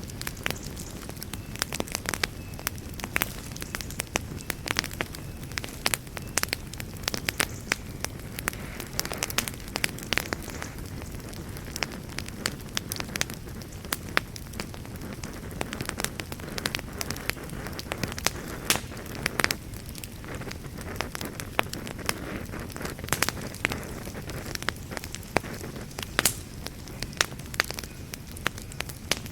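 Wood fire burning in a fireplace, crackling and popping with irregular sharp snaps over a steady soft rush of flame.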